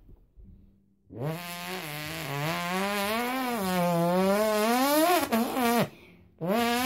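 A boy's mouth imitation of a dirt bike engine revving through the gears: a long buzzing drone that climbs and wavers in pitch, then drops off about six seconds in. A second rev starts rising just before the end.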